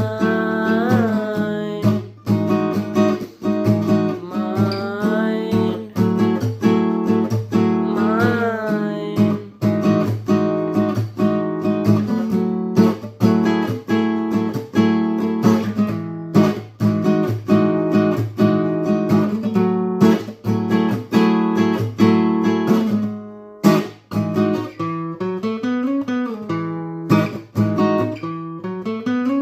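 Acoustic guitar strummed in a steady rhythm as a song's instrumental passage. A voice holds and bends wordless sung notes over it during the first several seconds.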